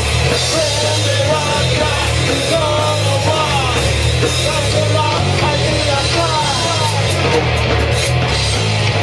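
Live rock band playing a loud, driving song: singing over electric guitars, bass and a drum kit.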